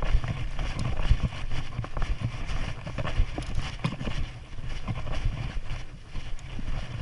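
Wind rumbling on the microphone, with scattered light knocks and clicks.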